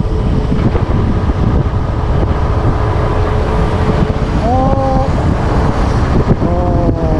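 Motorcycle riding at speed with heavy wind buffeting on the microphone over the engine's steady running. A couple of short, wavering higher tones cut in over it in the second half.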